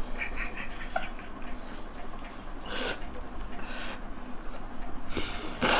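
Eating noises from people wolfing down plain chow mein noodles: a quick run of small smacking sounds near the start, then a couple of longer noisy bursts in the middle and near the end, over a steady low hum.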